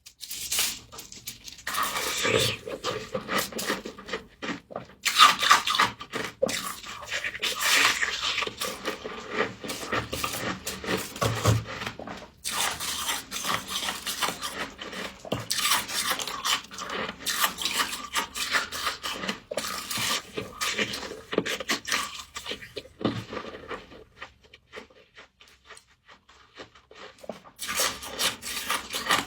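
Dense, crackling crunches and scrapes of frost, close to the microphone, with a quieter stretch a few seconds before the end.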